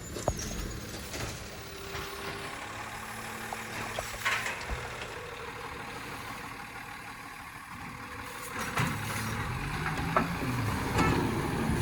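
Garbage truck's engine running close by, heard from a following car, with a few sharp knocks and clanks; the engine note shifts up and down in the last few seconds.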